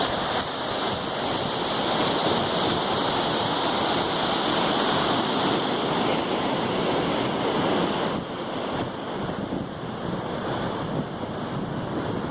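Ocean surf washing on the beach, with wind buffeting the microphone; the noise eases a little about eight seconds in.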